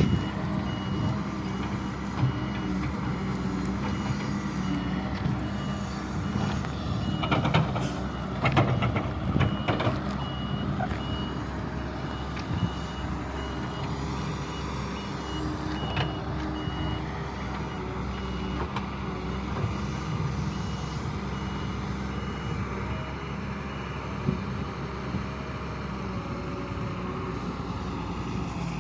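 Doosan DX140 excavator's diesel engine running steadily, with its travel/motion alarm beeping over and over until about four fifths of the way through. A few loud knocks come about a quarter of the way in.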